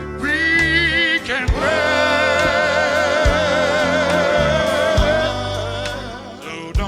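Live gospel quartet music: a singer slides up into a long, high note held with wide vibrato for several seconds, over the band's steady bass and a few drum hits.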